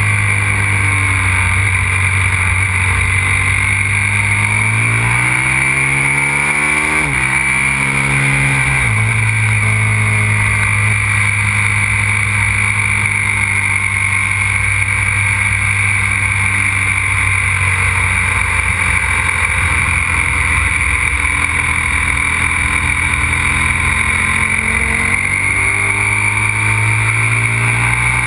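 Aprilia RXV 550 supermoto's V-twin engine running hard, revs climbing for several seconds, then a quick drop and recovery about seven to nine seconds in, as at a gear change. It then holds a steady pitch at speed for a long stretch and climbs again near the end.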